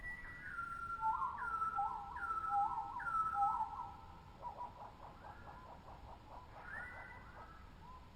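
Tropical birds whistling: clear, sliding whistled notes, a higher series and a lower series answering each other about twice a second, then a fast run of short notes for a couple of seconds past the middle, and a few more whistles near the end.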